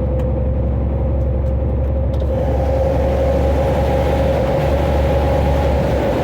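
A lorry's engine and tyre noise heard from the cab while driving steadily through a road tunnel: a constant low rumble with a steady hum. About two seconds in, a hiss of air and road noise grows louder.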